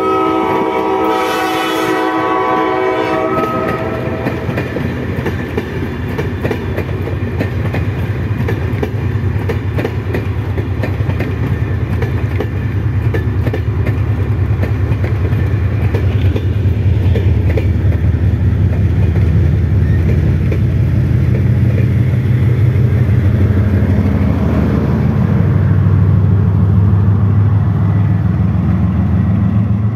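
Diesel locomotive horn sounding for about three seconds, then passenger coaches rolling past with wheels clicking over the rail joints under the steady low rumble of diesel locomotive engines. The engine rumble grows louder near the end as a locomotive draws close.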